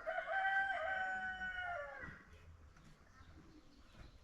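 Rooster crowing once: a single call of about two seconds, held level and then dropping in pitch at the end.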